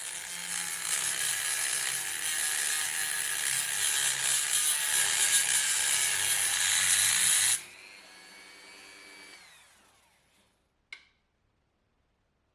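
A power tool running at full speed for about seven and a half seconds, then released and spinning down with a falling whine that fades out, followed by a single click.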